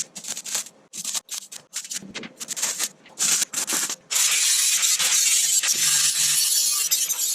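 Welding arc crackling: a run of short, irregular bursts like tack welds, then a continuous crackling bead from about four seconds in.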